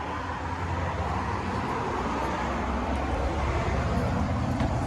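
Road traffic passing on a highway, a steady rushing noise with a low rumble that builds slightly in loudness.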